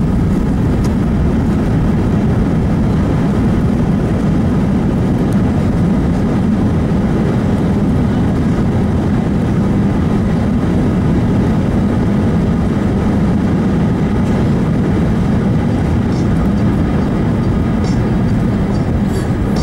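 Cabin noise of an Airbus A320 on the landing roll just after touchdown: a loud, steady low rumble of the engines and the wheels on the runway as the airliner slows.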